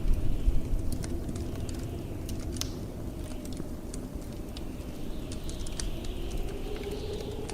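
Wood fire crackling in a fireplace, sharp irregular pops with a louder cluster right at the start, over a steady low rumble of blizzard wind. A faint howl of wind swells and fades near the end.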